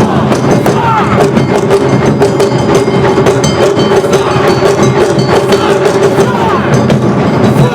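Awa odori festival music: drums and a ringing metal gong struck in a brisk, steady rhythm under a held melody line.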